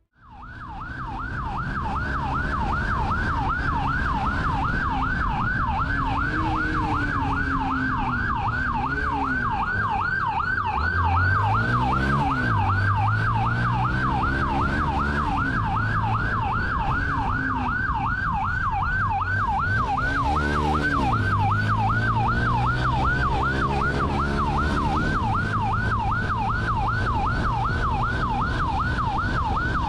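Police car siren in fast yelp mode, sweeping up and down about three to four times a second, over the pursuing cruiser's engine rising and falling as it accelerates.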